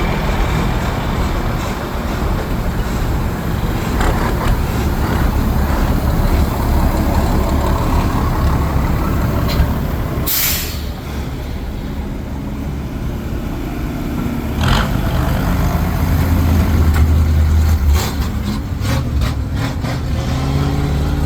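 A fire truck engine running at low speed with a steady low rumble. There is a sharp air-brake hiss about ten seconds in and a shorter one near fifteen seconds.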